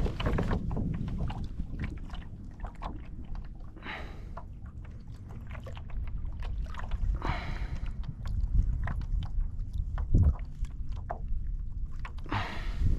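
Water sloshing and splashing around a kayak, with a few louder splashes a few seconds apart over a steady low rumble of wind on the microphone.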